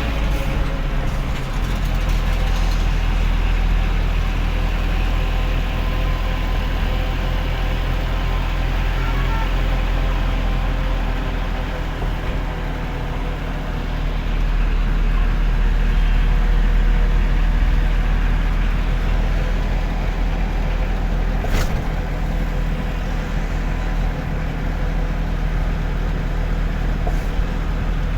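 Delivery truck engine and road noise while driving: a steady low rumble that eases off a little about twelve seconds in and builds again a few seconds later. A single sharp click comes about three-quarters of the way through.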